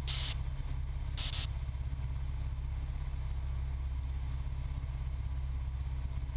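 Cessna 172's piston engine and propeller droning steadily in the cockpit, with two short bursts of hiss in the first second and a half.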